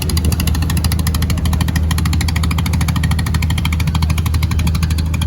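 Fishing boat's engine running steadily and loudly, with a fast even beat of engine pulses and a deep hum.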